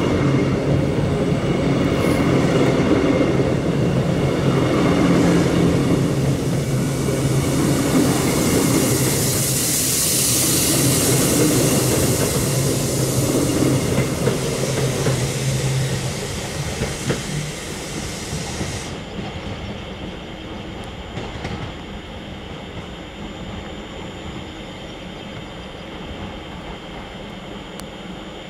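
A train passing through the station: a steady low drone with wheel and rail noise and a hiss that swells about ten seconds in, then falls away after about sixteen seconds, leaving a much quieter background.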